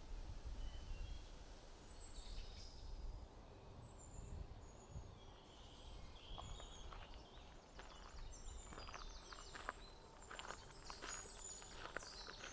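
Small birds chirping in short high notes, with a person's footsteps on a forest trail starting about halfway in.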